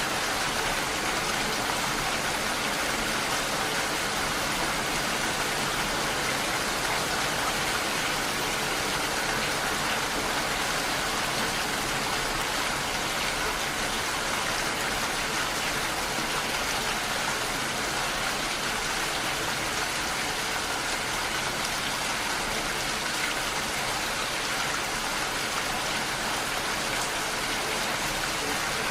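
Steady rain, an even hiss of falling rain with no change in level.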